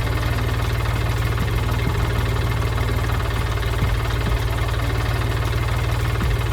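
Heavy construction-vehicle engine idling steadily with a deep, even rumble.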